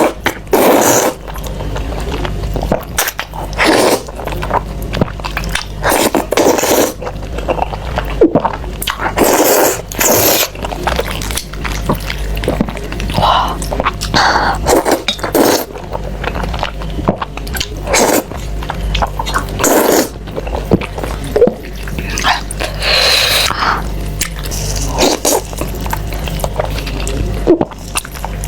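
Close-miked eating of Buldak spicy fire-chicken noodles: irregular wet slurps and chewing about once a second, over a steady low hum.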